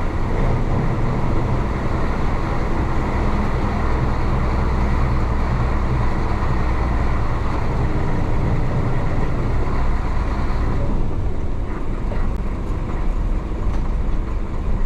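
The DA640 diesel engine of a 1966 Isuzu BXD30 bonnet bus running steadily under way, with road noise. About eleven seconds in, the higher part of the sound falls away as the engine eases off.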